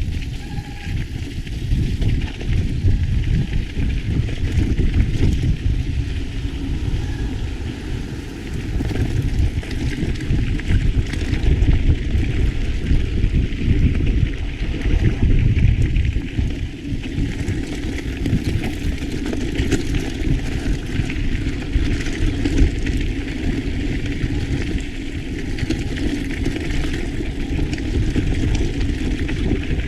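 Mountain bike riding on a trail: wind rushing over the microphone and tyres rolling over the ground, with frequent small irregular rattles and knocks.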